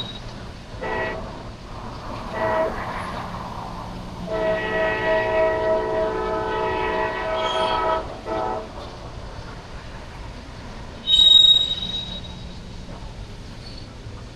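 Diesel freight locomotive's air horn sounding a chord in four blasts: two short, one long of about four seconds, then one short, over a steady low engine rumble. About eleven seconds in comes a brief, loud high-pitched squeal.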